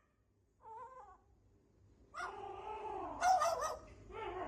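A pet animal crying: one short faint call about a second in, then longer wavering, pitched cries from about two seconds on.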